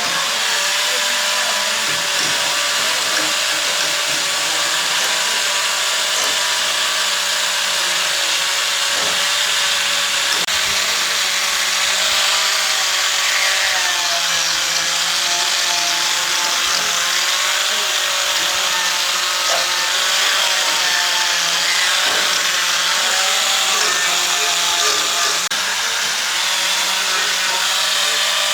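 A handheld power tool's motor running continuously, its pitch steady except for slight dips now and then.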